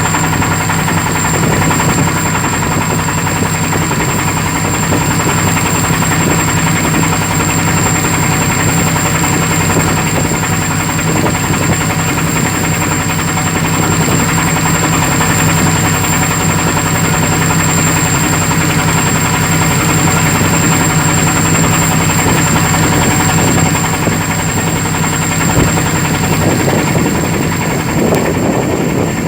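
Boat's engine running steadily: a loud, even drone with a low hum.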